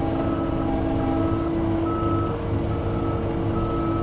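Skid steer's diesel engine running steadily while its backup alarm beeps, about five beeps spaced a little under a second apart, as the machine reverses.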